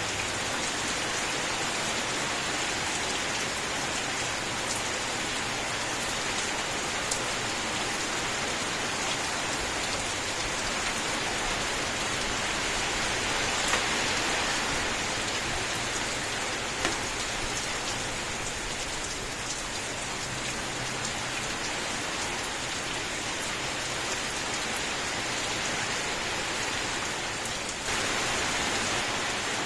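Steady rain falling, an even hiss with occasional individual drops tapping through it; the rain gets abruptly a little louder near the end.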